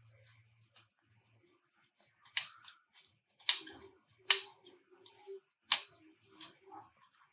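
Sharp metallic clicks and clinks, about half a dozen spread over the second half, from a 5 mm Allen key working the screw out of a folding e-bike's suspension block and the loosened parts being handled.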